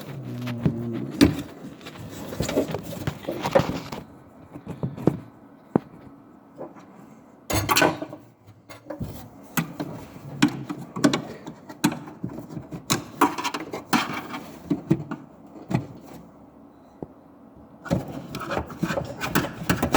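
Plastic lock mechanism and its clip inside a Ford Fusion front door being pushed and pried loose by hand: irregular clicks, knocks and scraping of plastic on the door's metal.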